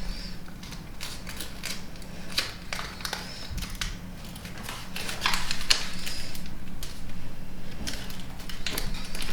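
Sheet of origami paper being folded and creased by hand: irregular crinkling and crackling with short sharp rustles, busier in the second half.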